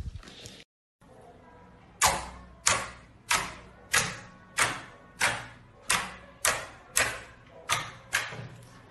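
Slime being played with by hand: soft sticky crackling, a short break, then about two seconds in a steady run of eleven sharp wet smacks, roughly one every 0.6 s.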